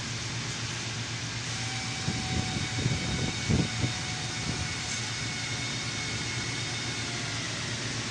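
A car running with a steady low hum and hiss, with a few short low bumps about two and a half and three and a half seconds in.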